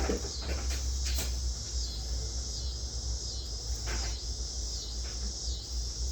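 A few light knocks and clicks from handling work, over a steady high hiss and a low hum.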